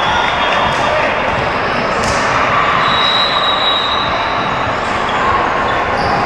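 Busy gymnasium din: many voices chattering, with volleyballs bouncing and being hit on the court.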